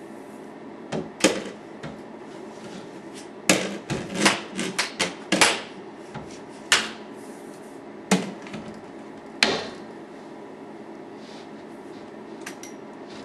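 A broom knocking drifted snow off a window, about a dozen sharp wooden knocks and brushing scrapes, bunched in the middle and tailing off about three-quarters of the way through.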